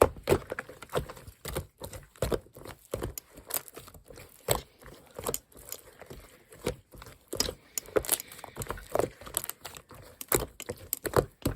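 Mint-chocolate slime being squished and stretched by hand, giving irregular sticky clicks and small air-bubble pops.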